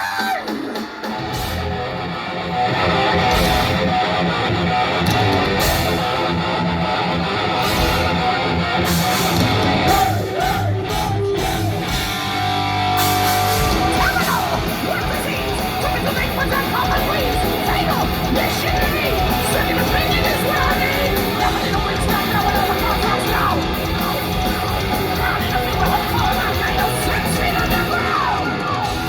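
A thrash metal band playing live through a PA, loud: distorted electric guitars, bass and drums, with a short sparser break about twelve seconds in before the full band comes back.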